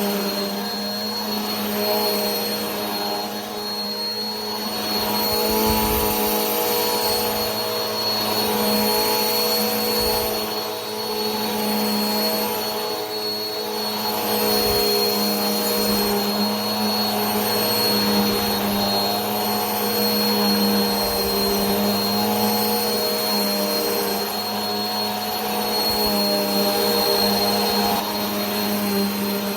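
Vacuum cleaner running steadily: a motor hum with a high whine over the rush of air, swelling and easing slightly every few seconds.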